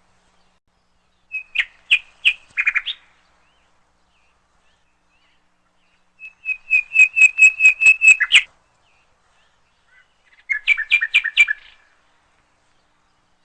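A songbird singing three short phrases, each a quick series of sharp repeated notes, the middle one the longest: about a dozen notes in a fast run.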